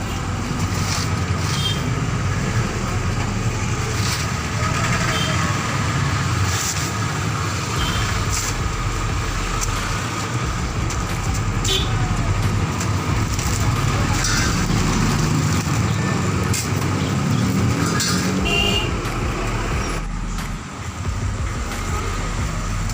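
Roadside traffic noise: vehicles running and passing on a busy street, with horn toots and some indistinct voices.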